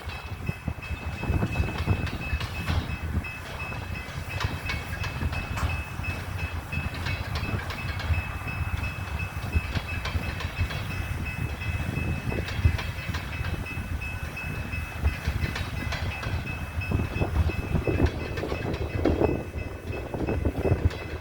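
Coal train cars rolling along the track: a steady low rumble with repeated wheel clicks over rail joints.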